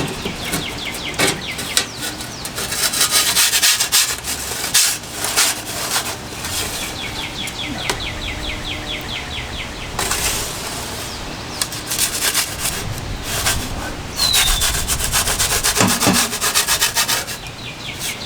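Gusts of wind hissing in surges, with scattered sharp crackles and clicks. Throughout, birds are trilling in rapid repeated chirps, with one sliding chirp near the end.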